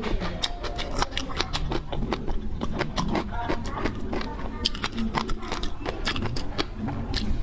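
Close-up eating sounds of seafood being chewed: a dense run of quick clicks and smacks, several a second, over a low rumble.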